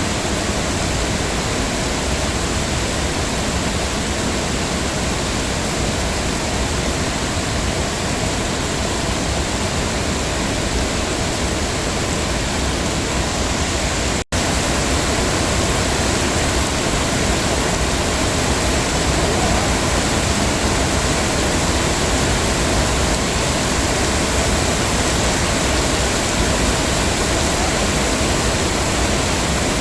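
Heavy rain falling steadily as an even hiss, with a split-second dropout about halfway through.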